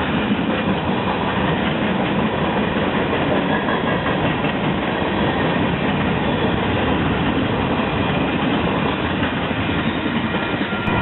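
Railroad cars rolling past on the track, the wheels running steadily over the rails.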